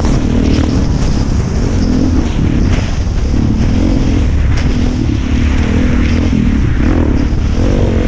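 Suzuki DR-Z400's single-cylinder four-stroke engine running under way on a rough gravel track, its pitch rising and falling with the throttle.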